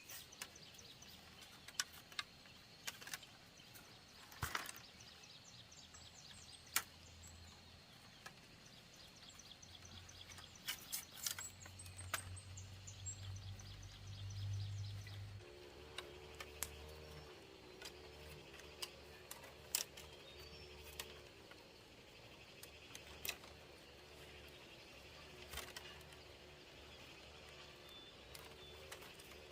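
Quiet rural outdoor ambience with scattered sharp clicks and knocks, a thin steady high insect-like tone and faint bird chirps. A low steady hum joins about halfway through.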